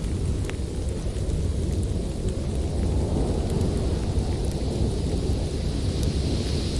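Storm wind blowing with a deep, steady rush that swells about three seconds in. A few faint crackles of a wood fire come through.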